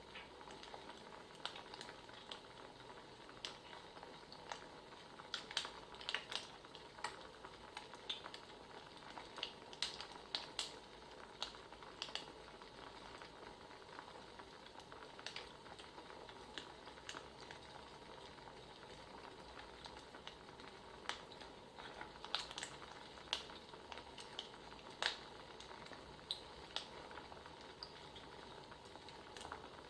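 Wood fire crackling: a low steady hiss broken by irregular sharp pops and snaps.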